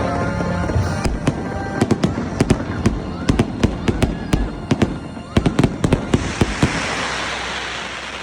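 Fireworks going off in a rapid barrage of sharp bangs, which give way about six seconds in to a dense crackling hiss that fades.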